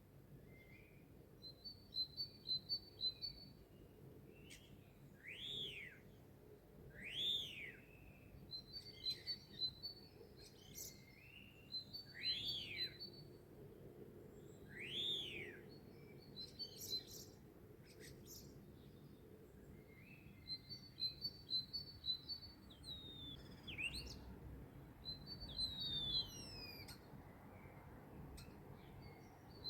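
Songbirds singing: a short high trill of quick notes repeated every couple of seconds, four clear whistled notes that rise and fall, and a few downward-sliding notes near the end.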